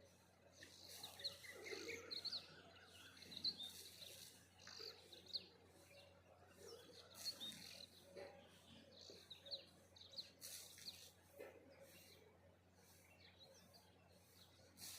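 Faint birdsong: many birds chirping and twittering in quick short notes, a morning dawn chorus.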